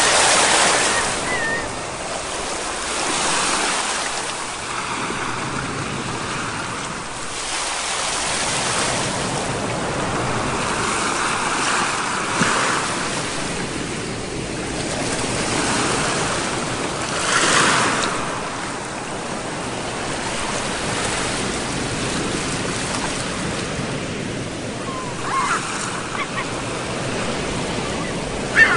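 Sea waves surging and breaking in slow swells every few seconds, with a steady wash of surf between them.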